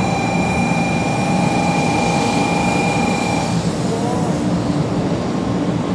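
500 Series Shinkansen train pulling into a station: a low rumble under a steady high whine that cuts off suddenly about three and a half seconds in.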